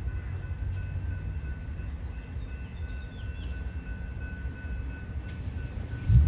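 Passenger train at the station: a steady low diesel rumble with a thin, steady high whine over it, and a sharp thump near the end.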